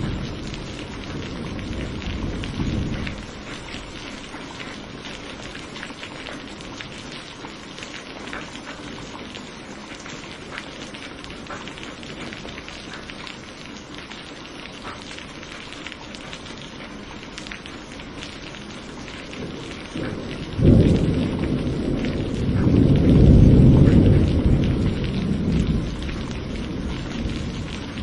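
Steady rain falling during a thunderstorm. A low roll of thunder dies away in the first few seconds, then about two-thirds of the way through a sudden clap of thunder breaks into a rolling rumble that swells and fades over several seconds.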